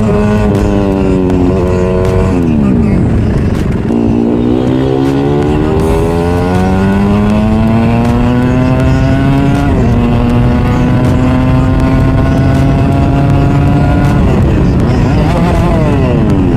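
Yamaha R15 V3's single-cylinder engine and exhaust under way. Its pitch climbs as it accelerates, drops sharply at each gear change about a second and a half in and again about ten seconds in, holds steady for a few seconds, then falls off toward the end.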